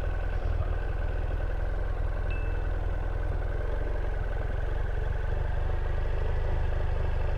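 Motorcycle engine idling steadily, with an even low hum that does not rise or fall.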